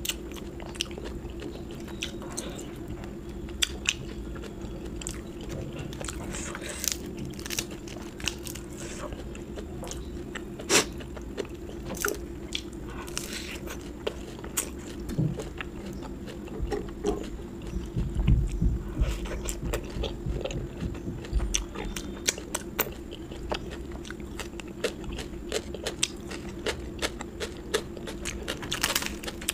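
Close-miked chewing and crunching of food: a run of small crunches, clicks and wet mouth sounds over a steady low hum.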